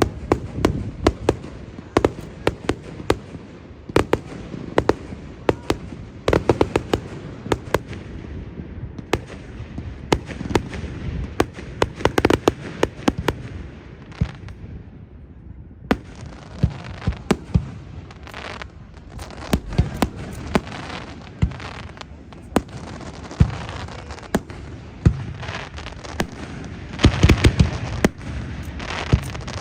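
Fireworks display: a rapid, irregular run of shell bursts and bangs over a continuous rumble and crackle, easing off briefly about halfway through and building to a dense cluster of loud bangs near the end.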